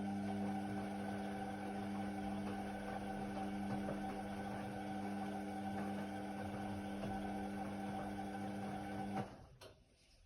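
Indesit WIDL 106 washer-dryer running with a steady electric motor hum, which cuts off a little over nine seconds in.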